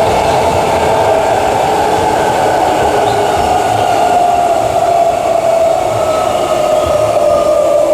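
Queensland Rail EMU electric train running, its traction motors whining with a pitch that falls slowly as the train slows, over the rumble of the wheels on the track.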